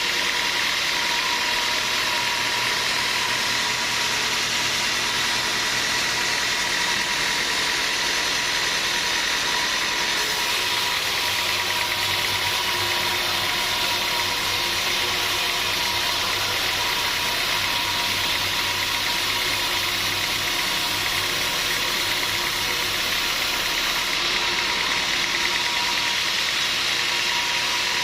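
Sawmill machinery running steadily, a constant hiss with a steady whine, growing brighter about a third of the way in and easing back near the end.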